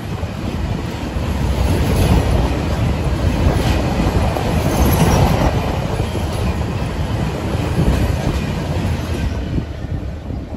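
Freight train's open box wagons rolling past close by: a steady rumble with wheels clicking over the rail joints, easing off near the end as the last wagons go by.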